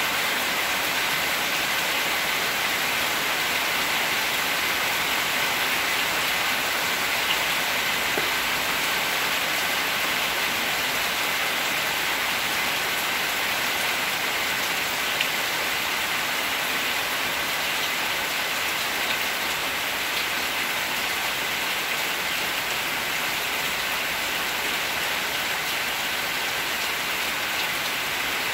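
Steady rain falling, an even hiss with a few faint clicks.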